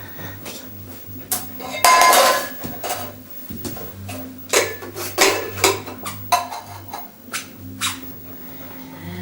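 A tower of stacked metal cans knocked over: a loud clattering crash about two seconds in, followed by a string of sharper clanks and rattles as the cans tumble and are knocked about.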